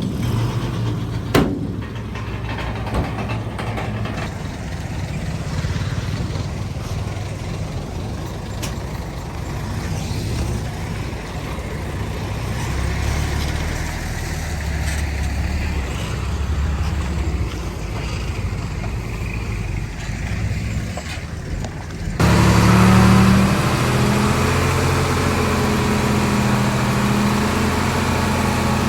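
Heavy diesel earthmoving machinery running steadily at a land-fill site, with a couple of sharp clicks near the start. About three-quarters of the way through, the sound jumps suddenly louder, with a stronger, steadier engine hum.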